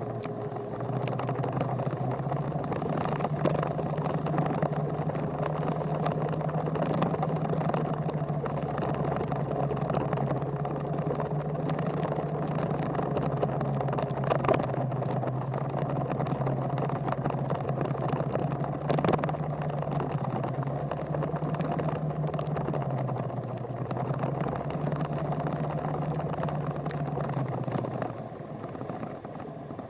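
Motorcycle engine running steadily under way, its pitch shifting up and down slightly with a few sharp clicks; the engine sound eases off near the end.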